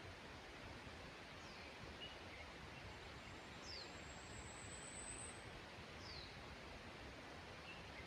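Faint mountain outdoor ambience: a steady soft hiss with a few quiet wild-bird chirps, short falling notes about three times, and a thin high whistle lasting about two seconds in the middle.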